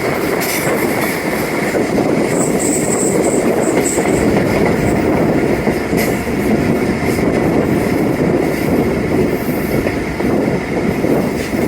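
Passenger train running on the rails, heard from aboard: a steady rumble of wheels, with a thin high wheel squeal about two to five seconds in.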